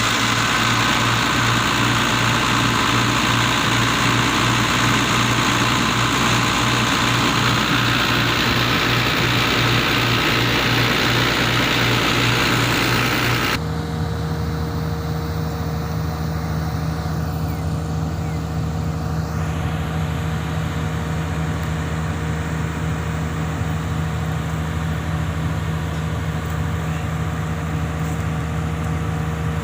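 XCMG excavator diesel engine running steadily at raised throttle just after being started. About halfway through, its sound changes abruptly to a slightly quieter, different steady note.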